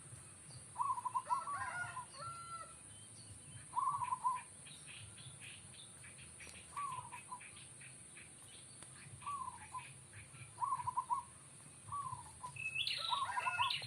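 Zebra doves (perkutut) cooing: short phrases of a few quick notes repeated every couple of seconds, with brief higher chirps from other small birds about a second in and near the end.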